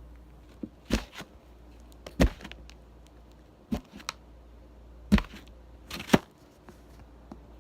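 A knife cutting into a bar of soap: a series of short, sharp, crisp cuts, roughly one a second, with fainter ticks between them.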